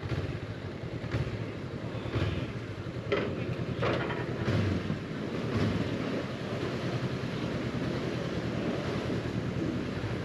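Honda CB500X parallel-twin motorcycle engine running on the ride, under steady wind noise on the microphone, with several short rushes of louder noise in the first half.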